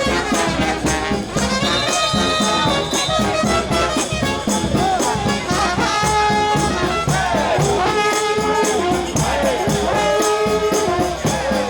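New Orleans brass band playing a second line: horns holding and sliding between notes over driving drums and percussion.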